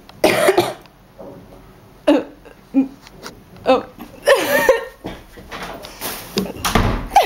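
Short, separate bursts of young people's voices, laughing, squealing and coughing.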